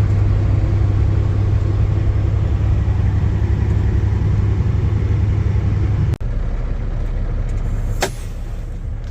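A vehicle engine running steadily with a low rumble. It breaks off abruptly about six seconds in and gives way to a quieter, steadier engine sound, with a single sharp click near the end.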